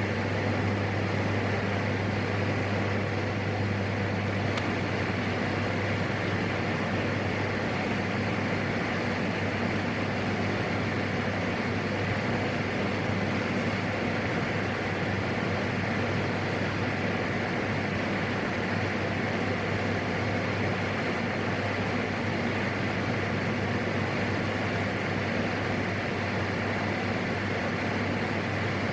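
PAC 750XL's Pratt & Whitney PT6A turboprop engine and propeller droning steadily in flight: a constant low hum under an even hiss, with no change in pitch or level.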